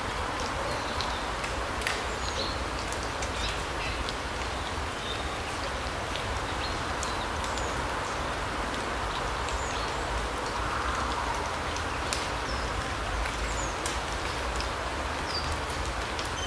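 Larch-forest ambience: a steady rushing background with a low rumble, small birds giving short high chirps now and then, and scattered light ticks like drips falling through the trees.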